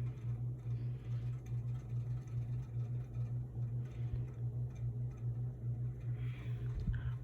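A steady low machine hum, pulsing a few times a second, with faint soft rustles of handling now and then.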